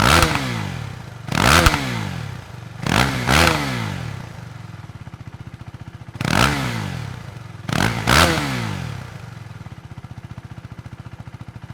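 Husqvarna Svartpilen 401's single-cylinder four-stroke engine revved in quick throttle blips, some in pairs, each pitch rising sharply and falling back to a steady idle. There are about six blips, with longer stretches of idle in the middle and near the end.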